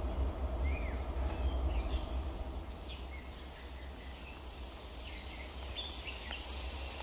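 Park ambience: scattered short bird chirps over a steady low rumble and a light hiss.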